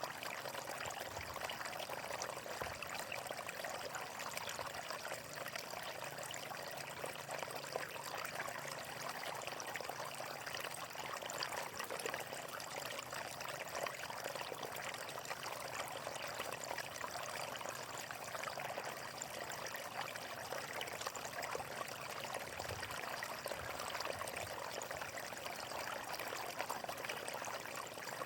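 Natural flowing water splashing and pouring steadily, like a stream running over rocks, with no change in the flow.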